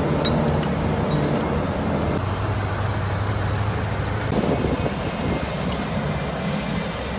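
Heavy earthmoving machine running with a steady engine drone whose pitch shifts slightly a couple of times, with a few faint metallic clinks early on.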